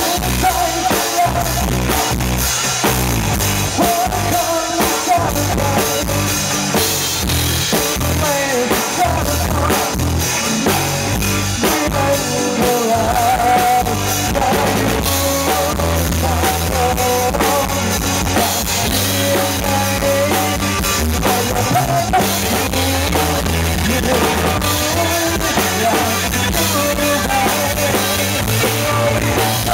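Rock band playing live: drum kit and guitars over a steady bass, with a wavering melody line on top.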